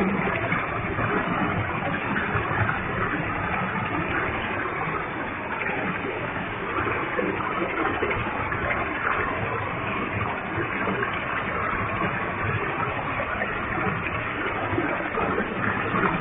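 Waterfall with a heavy flow of water, a steady rush of falling and splashing water.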